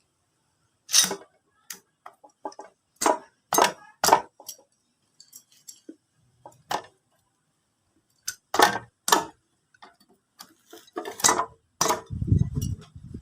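Irregular sharp metallic clinks and knocks of tools and small engine parts being handled and set down, about fifteen of them, during motorcycle engine assembly. A low rough noise sets in near the end.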